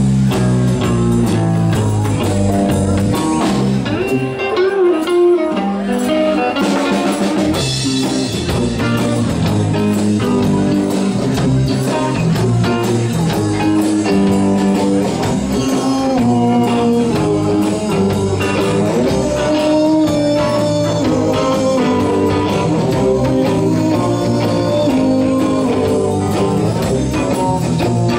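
Live band playing a blues number led by guitar, with a steady bass line underneath.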